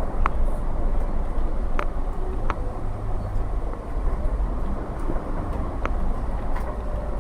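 Cabin noise of a MAZ-107.466 bus under way: steady low rumble of its Mercedes-Benz OM 906LA six-cylinder turbo diesel and road noise, with a few short rattling clicks from the interior.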